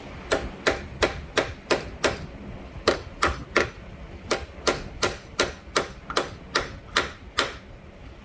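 Hammer tapping a shaft adapter sleeve onto a Kohler small engine's crankshaft: a steady run of sharp light taps, about three a second, driving the sleeve up the shaft.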